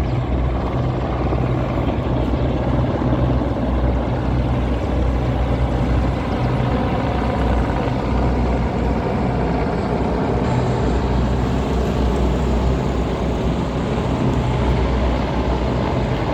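Vehicle engines running steadily, with a loud low rumble.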